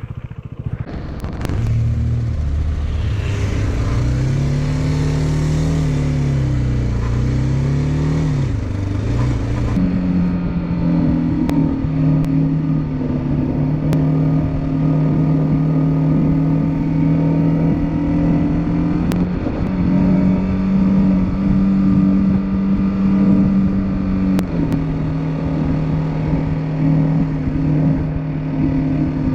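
Motorcycle engine pulling away from near quiet and accelerating, its pitch rising and dipping through the first gears, then running at a steady cruising speed with a few small shifts in pitch.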